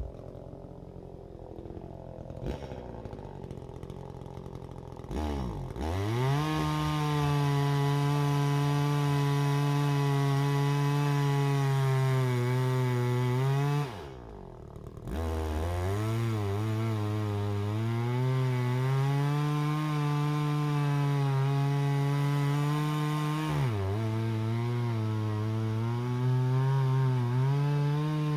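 Two-stroke chainsaw idling, then opened up to full throttle and held there. Its pitch sags and recovers under load, as it does when cutting wood. It drops back to idle twice, briefly, before revving up again.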